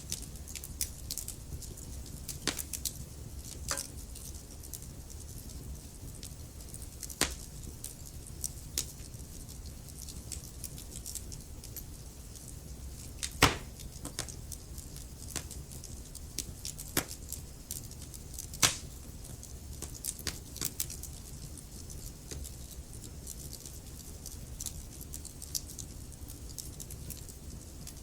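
Wood fire burning in a fireplace: a steady low rumble of flames with irregular sharp crackles and pops, two of them much louder about halfway through.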